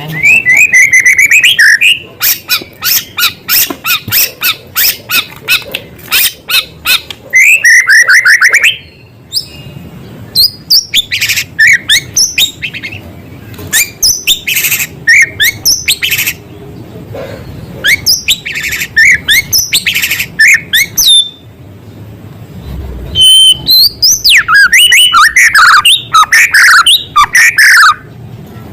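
White-rumped shama singing loudly, its song full of mimicked small-bird calls: fast runs of repeated sharp notes and whistled trills, breaking off briefly twice.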